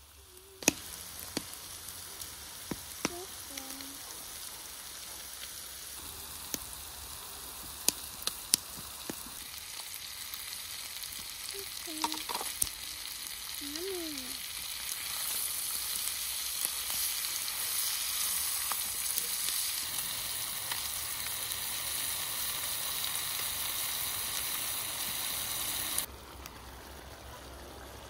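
Food frying in a pan, a sizzle that builds and is loudest through the second half, with a few sharp clicks in the first half. The sizzle stops suddenly about two seconds before the end.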